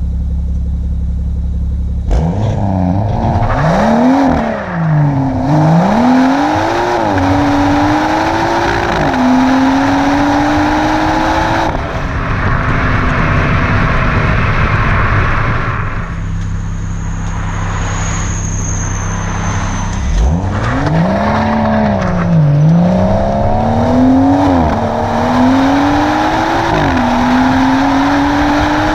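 BMW M140i's 3.0-litre turbocharged straight-six under hard acceleration, twice: the revs swing up and down, then climb in steps with a drop at each gear change. Between the two runs it settles to a steady cruise.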